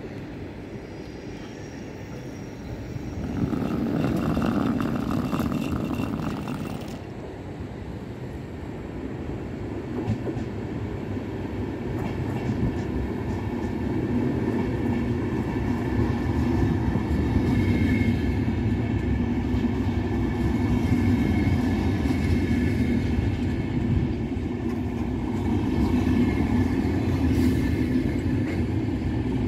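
VR double-deck InterCity train rolling slowly into the station on the platform track: a steady wheel-on-rail rumble that grows louder as the coaches draw level and pass, with a thin high squeal over it. A louder swell of noise comes for a few seconds near the start and cuts off abruptly.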